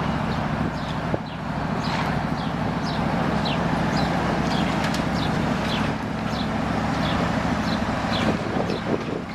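A heavy engine running steadily at a constant speed, with a bird chirping repeatedly in short, high, falling notes over it.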